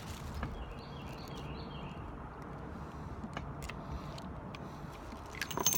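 Light metallic clicks of a stainless double-action revolver being handled between strings of fire, over a steady outdoor background, with a quick cluster of louder clicks near the end.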